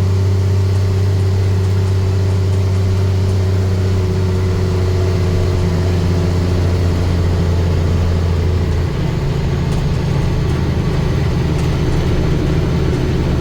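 International DT466 inline-six turbo diesel in a 1987 S1900 dump truck running steadily under way. The drone holds one pitch, then its note changes about nine seconds in.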